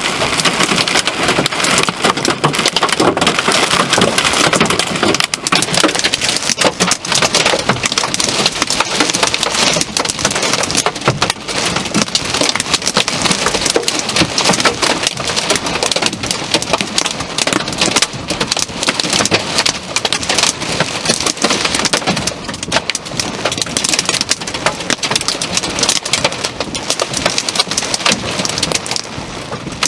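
Heavy thunderstorm rain pouring steadily, a dense, unbroken patter of drops striking hard surfaces.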